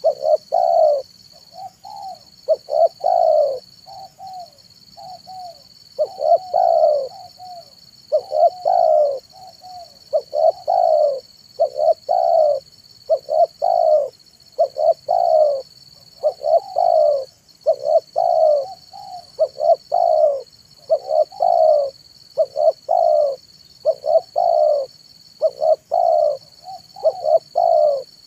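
Spotted dove (tekukur) cooing over and over: short groups of two to four coos, repeating every one and a half to two seconds.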